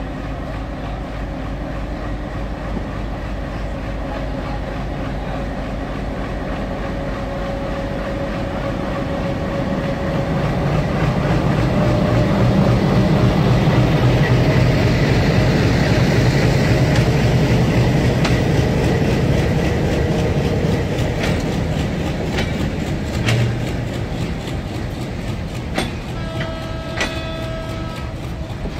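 ALCO diesel locomotive pulling a passenger train away from a station: its engine drone builds to its loudest as the locomotive passes about halfway through, then fades as the coaches roll by with repeated clicks of wheels over rail joints.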